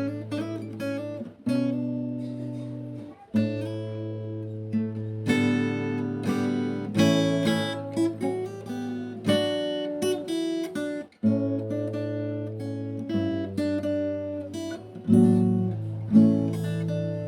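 Background music: acoustic guitar strumming chords, with plucked notes ringing between chord changes.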